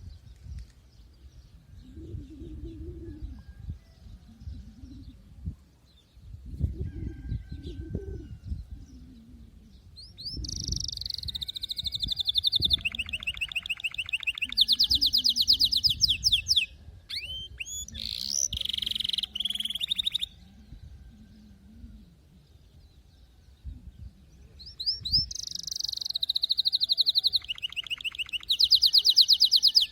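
Canary singing in fast rolling trills of rapidly repeated high notes, in two long phrases with a short pause between. The first third holds only a low rumbling noise before the song starts.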